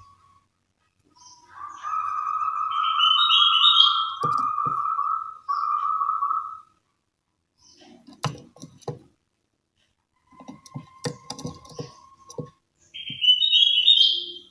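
Bird calling: a long, steady whistle-like call with a rising, stepped phrase over it, then a run of short clicks and low notes, and the rising phrase again near the end.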